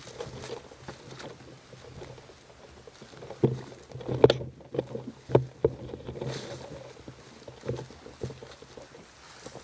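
Irregular knocks and rustling from handling of an airsoft rifle with a camera mounted on it, as the player moves, with the loudest knocks clustered near the middle.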